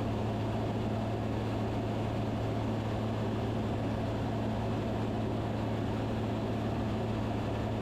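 Van's RV-10's piston engine and propeller droning steadily in the cabin during descent, an even low hum with no change in pitch.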